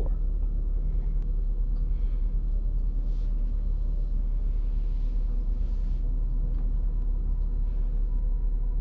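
A low, steady rumbling drone with a faint hum above it: a dark ambient sound-design bed of the kind laid under tense film scenes.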